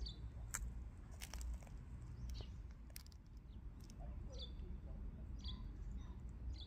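Small birds chirping in short, high calls a few times, over a steady low rumble.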